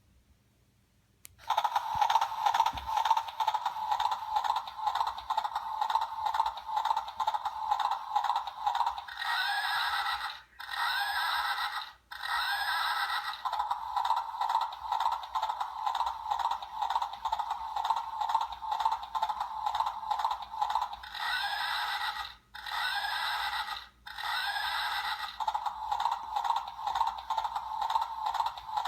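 Battery-powered animatronic toy horse walking: its motor and gear mechanism rattle and scrape steadily, and twice it plays an electronic whinny sound effect, each a short run of sweeps up and down in pitch.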